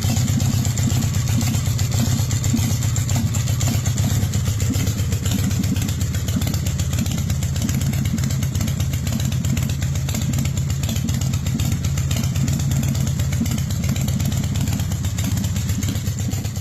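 Motorcycle V-twin engine, on a 2004 West Coast Chopper CFL, running steadily without revving: a loud, even, low rumble of rapid firing pulses.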